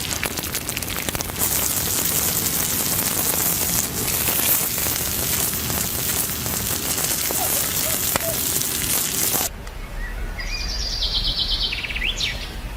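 A loud, steady hiss with crackles that cuts off abruptly about nine seconds in, followed by birds calling in short chirps and trills.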